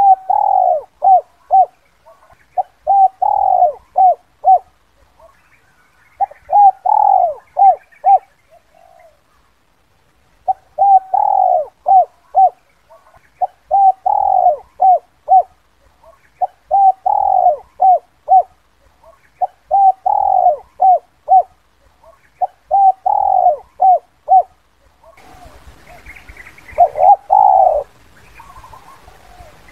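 Spotted dove cooing its 'kuk 2' call: a phrase of one drawn-out note followed by about three short clipped notes, repeated roughly every three seconds. Near the end a faint hiss and some thin higher chirps sit behind the cooing.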